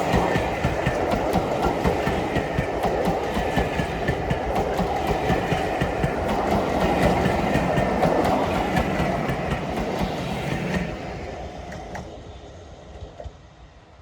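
Railway carriages rattling past over the rails, a dense clatter of wheel clicks that fades away about eleven seconds in.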